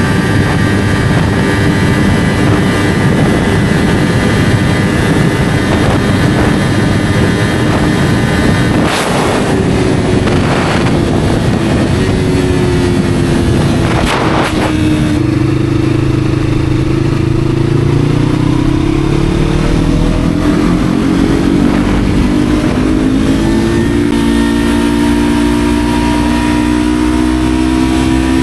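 Yamaha R3's parallel-twin engine through an SC Project slip-on exhaust while riding. It holds a steady speed, then the engine speed falls for several seconds, then climbs again as the bike accelerates, and settles into a steady cruise near the end.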